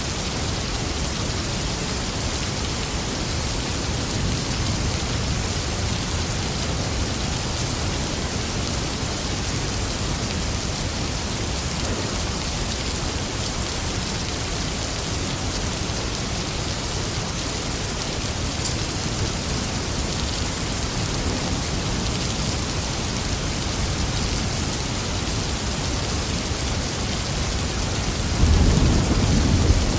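Steady rain falling, an even hiss. A low rumble of thunder begins near the end.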